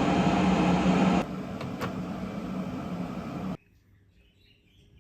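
A kitchen appliance running with a steady hiss and low hum. It drops in level about a second in and cuts off abruptly at about three and a half seconds, leaving only faint room noise.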